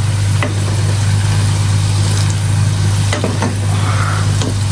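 Garlic and freshly added ground spices frying in hot oil, sizzling steadily while a spatula scrapes and stirs the pan a few times, over a steady low hum.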